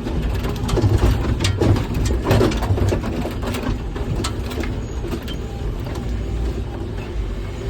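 Rock truck driving over rough ground, heard inside the cab: the diesel engine's steady low drone with cab rattles and knocks, most of them in the first few seconds as the truck jolts.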